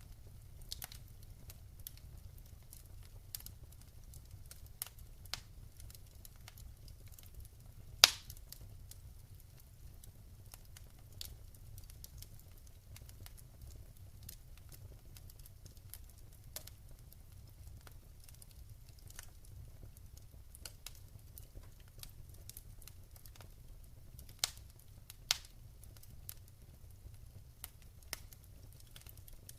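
Wood fire in a fireplace crackling: scattered sharp pops, one loud pop about eight seconds in and two more close together near the end, over a low steady rumble.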